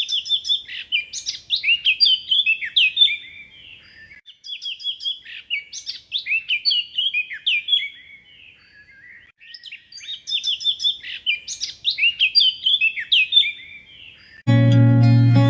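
A songbird singing in three bouts of rapid, high chirps and trills, each bout three to four seconds long with short pauses between. Music starts about a second before the end.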